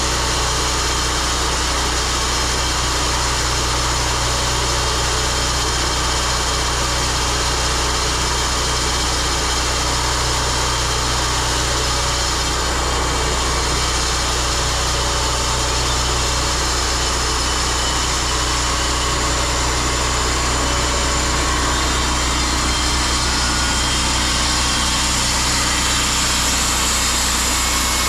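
Gasoline engine of a portable sawmill running at a steady speed.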